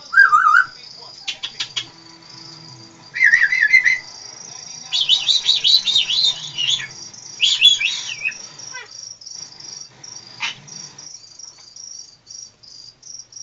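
African grey parrot whistling and warbling in short wavering bursts, the longest a rapid trilling run about five seconds in, with a few clicks early on and a high repeated chirping through the second half.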